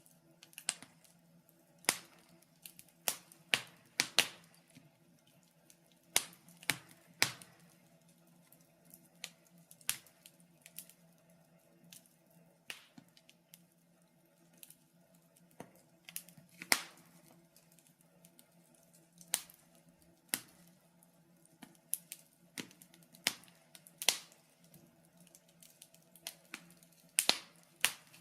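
Wood fire crackling in a fireplace: irregular sharp pops and snaps, sometimes several close together, over a faint low hum.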